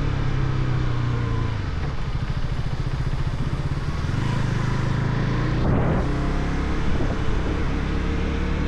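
Motorcycle engine running steadily under way. Its note drops about a second and a half in and changes again around six seconds.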